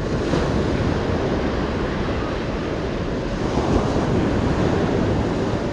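Ocean surf breaking and washing onto a sandy beach in a steady rush, with wind on the microphone.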